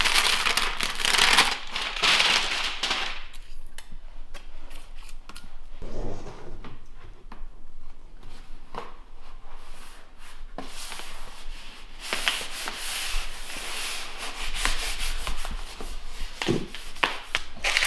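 Scraping and rubbing on flooring material, heaviest at the start and again late on, with scattered light knocks and clicks as the floor is laid.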